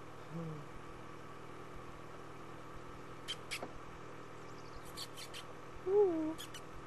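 Vehicle engine idling with a steady hum. A few sharp clicks come in the middle, and a short falling pitched call, the loudest sound, comes about six seconds in.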